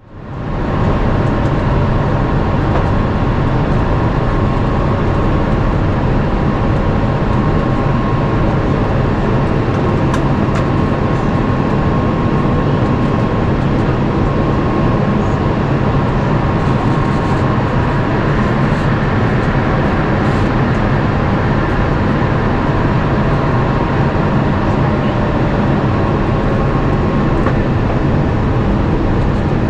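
Steady cabin noise of an Airbus A350-900 in flight, heard from a window seat: even engine and airflow rushing with a faint steady hum, fading in over about a second and then holding level.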